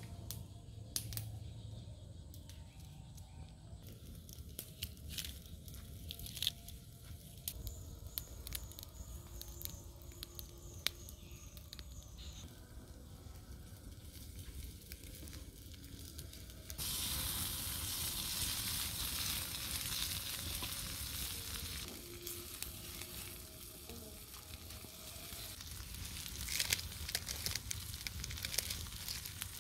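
Water hyacinth stir-fry sizzling in a pan, with scattered light clicks and knocks. About 17 seconds in, a louder, denser sizzle starts suddenly, with crackles near the end.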